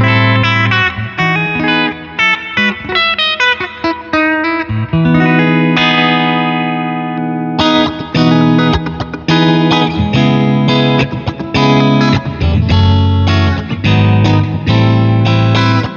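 Squier Stratocaster electric guitar being played for a sound test: quick picked single-note phrases and chords, with one chord left to ring about five seconds in before the playing picks up again.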